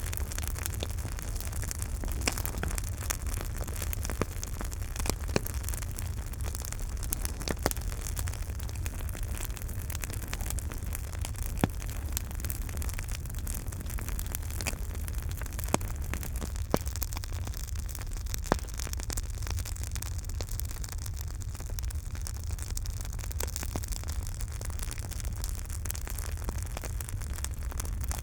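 Campfire burning, with a steady low rushing sound under frequent sharp crackles and pops, a few of them louder than the rest.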